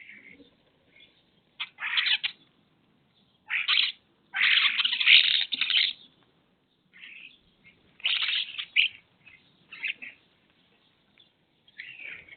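Bird calls coming in separate bursts a second or two apart, mostly short, with one longer run lasting about a second and a half.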